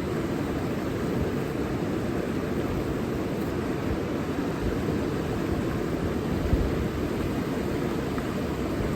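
Steady rushing of a river flowing, an even noise with no breaks. A brief low rumble about six and a half seconds in.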